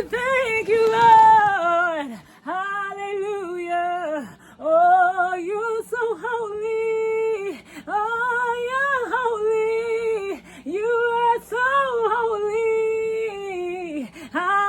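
A woman singing solo without accompaniment, in a worshipful vocal line of long held and sliding notes, phrase after phrase. A faint steady low hum runs underneath.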